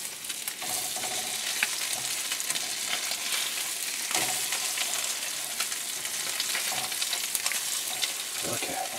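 Salmon cakes sizzling steadily as they fry in butter in a skillet, freshly flipped to brown the second side, with small crackles and pops through the hiss.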